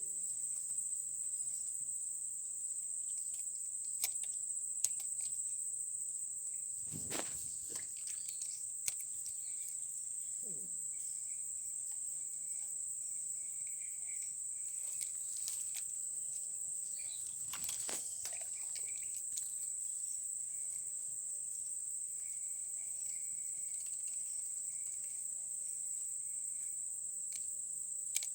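A steady, high-pitched chorus of crickets or similar night insects, with a few short clicks and knocks now and then.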